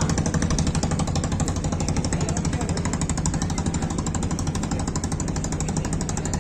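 An engine running with a rapid, steady pulsing beat.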